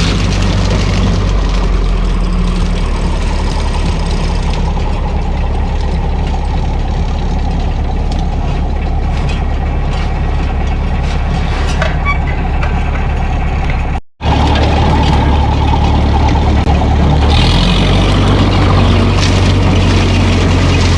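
Old Ferguson tractor's engine running steadily, a low, even drone.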